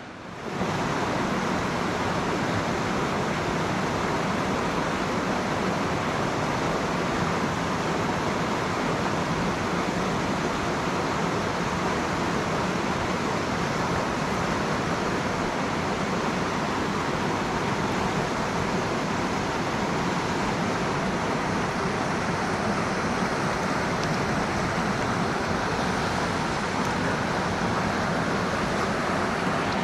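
Mountain stream water rushing steadily over rocks, a constant even roar that gets louder about half a second in.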